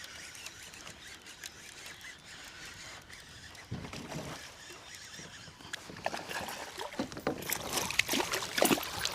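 Irregular knocks and splashes on and around a kayak's hull, sparse at first and busier in the second half.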